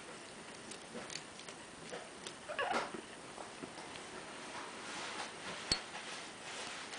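A pet's brief wavering squeaky cry about three seconds in, among scattered light clicks and taps, with one sharper click near the end.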